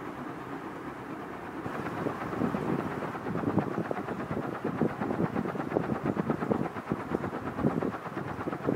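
Canarm CP56 140 cm industrial ceiling fan with three metal blades running at its second-highest speed, about 190 RPM, moving a lot of air. A steady rush of air that about two seconds in grows louder and breaks into rapid, uneven pulsing buffets.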